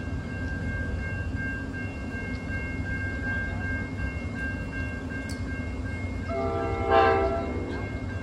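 NJ Transit train running past with a steady low rumble and a steady high-pitched whine. About six seconds in, the train horn sounds one short blast, about a second long.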